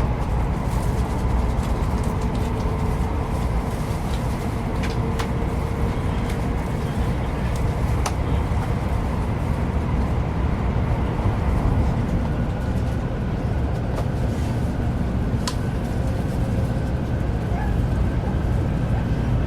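Shinkansen bullet train heard from inside the passenger cabin while running at speed: a steady low rumble and rush of running noise, with a few faint clicks.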